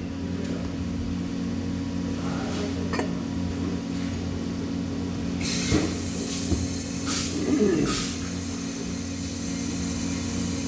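Steady low machine hum with a few sharp clicks, and short bursts of hiss in the middle.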